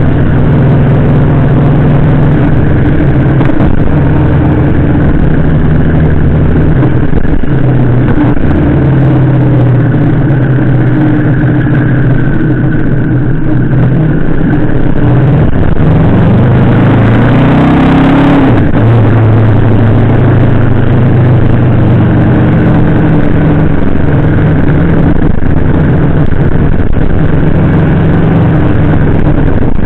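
Yamaha VMAX 1700's V4 engine running under way, picked up by a camera mounted on the bike. About halfway through it revs up in a rising pitch for about three seconds, then drops suddenly as the gear changes.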